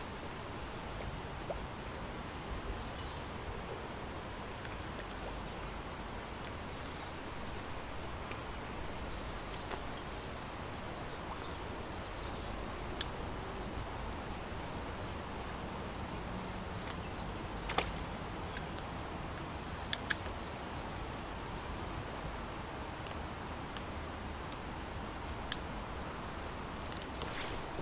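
Lakeside outdoor ambience: a steady background hiss with small birds chirping in short repeated calls through the first half, then a few sharp isolated clicks.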